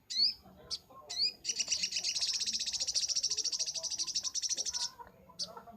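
Sogok ontong (little spiderhunter) singing: a few sharp upslurred chirps, then a long, rapid, high trill of about three and a half seconds, then short chirps again near the end.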